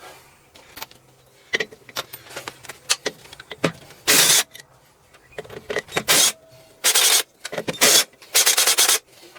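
Several short bursts from a power tool, each about half a second, with a quick run of pulses near the end. Small metal clicks and knocks come between them as parts are taken off a cylinder head.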